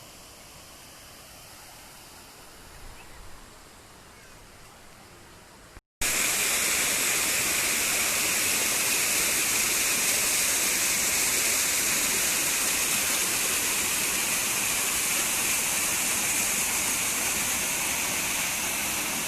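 A faint steady hiss, then after an abrupt cut about six seconds in, the loud steady rush of a waterfall falling close by.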